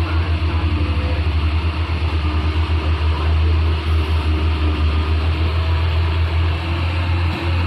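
Heavy diesel truck engine running, a deep, rapidly pulsing throb that settles into a steadier drone after a few seconds.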